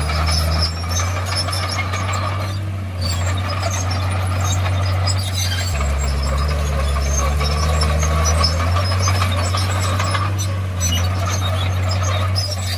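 Heavy diesel earthmoving machinery working: a diesel engine runs loudly, its note shifting a few times, under a steady clatter of metallic clanks and squeals.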